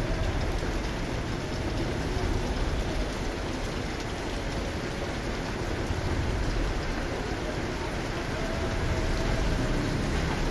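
Steady rain falling on wet pavement, an even hiss with no breaks.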